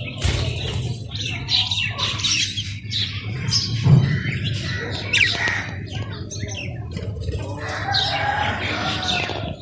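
A group of birds squawking and chirping, many short harsh calls overlapping without a break.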